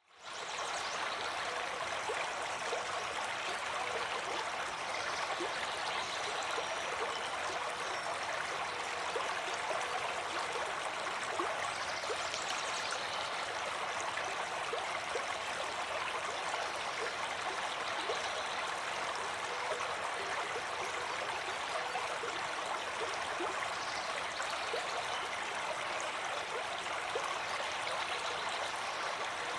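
Stream of water flowing steadily with a constant rushing, babbling sound, fading in over the first half second.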